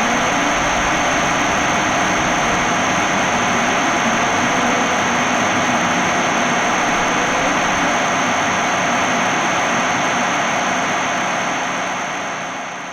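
Noise-drone music: a dense, steady wall of hiss and rumble with a thin high whine held on top, fading out near the end.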